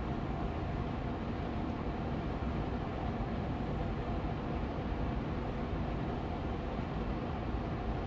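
Austin Air Allergy Machine air purifier fan running steadily on medium speed, an even airy hum with no changes.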